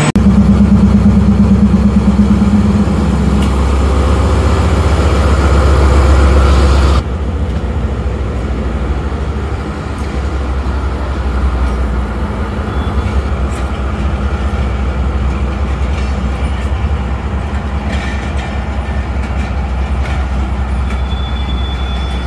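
Express passenger train running on the rails: a loud low rumble with a steady low hum for the first three seconds or so. About seven seconds in it drops suddenly to quieter, steady running noise with faint ticks.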